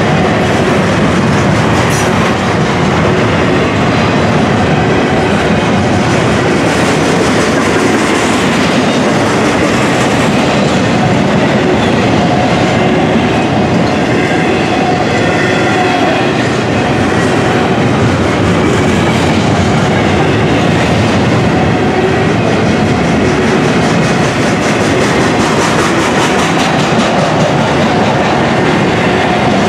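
Freight train's intermodal container cars rolling past at speed: a steady, loud rumble of steel wheels on rail with clickety-clack from the wheels and a faint whine now and then.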